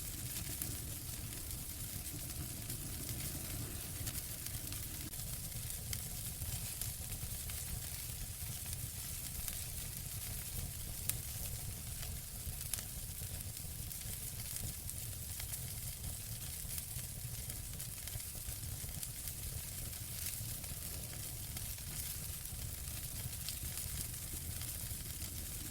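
Wood fire burning in a fireplace, a steady hiss and low rumble with fine crackles throughout and a couple of sharper pops about halfway through.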